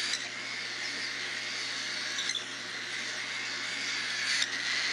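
Baby cockatiel being handfed, making a steady raspy, hissing feeding noise.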